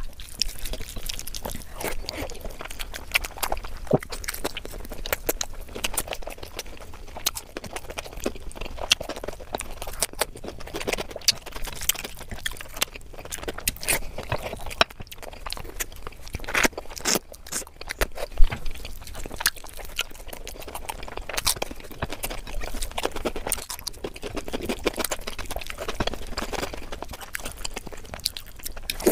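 Close-miked chewing and mouth sounds of eating rice and curry by hand, a constant stream of irregular sharp clicks and smacks, with fingers working the rice on the plate.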